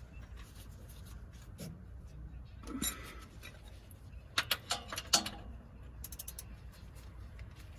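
Hand tools clicking and clinking against metal during work on a truck, with a few sharp knocks about four and a half to five seconds in and a brief fast run of ticks about six seconds in.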